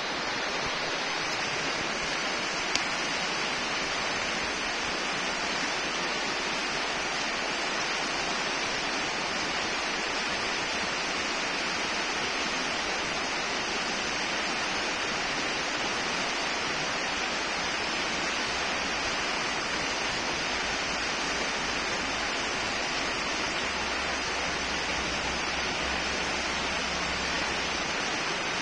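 Bonfire burning with a steady hiss, with a single pop about three seconds in.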